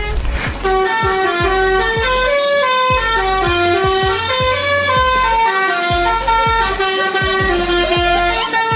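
Truck's musical horn playing a tune in quick stepped notes, loud and brassy, over a regular low thumping beat.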